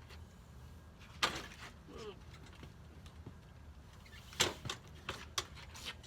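Split firewood knocking as pieces are set down and stacked: two sharp knocks, about a second in and again past four seconds, then a few lighter clicks near the end.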